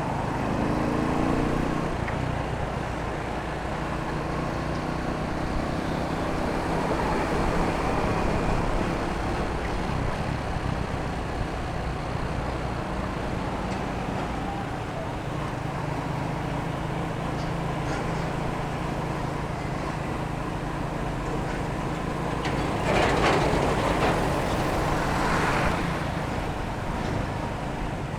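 Motorcycle engine running steadily while riding through city street traffic. Near the end, a louder rush of noise lasts a few seconds.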